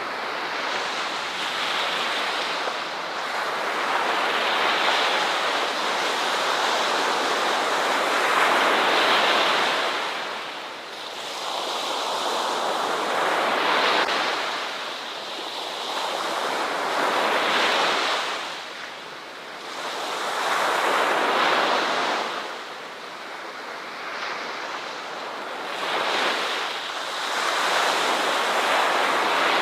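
Ocean surf: waves washing onto a shore in repeated swells, the rush rising and falling every three to five seconds.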